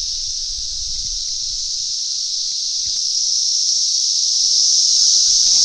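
Loud, steady, high-pitched chorus of thousands of cicadas singing in the trees, swelling a little near the end.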